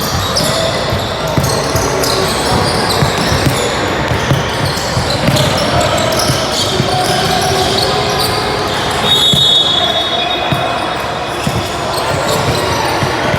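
Basketball game in a large gym: the ball bouncing and knocking on the court amid spectators' chatter, with a brief high tone about nine seconds in.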